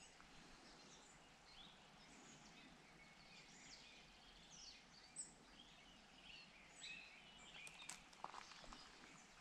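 Faint birdsong: several small birds chirping and calling on and off, over a quiet background, with a few short sharp clicks near the end.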